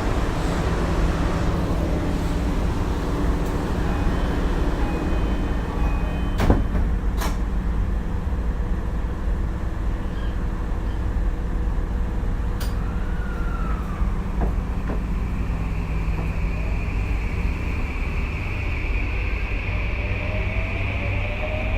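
Tokyu 2020 series electric train running, heard from inside the car: a steady rumble of wheels on rail with two sharp clicks about six and a half and seven seconds in, and a rising motor whine near the end.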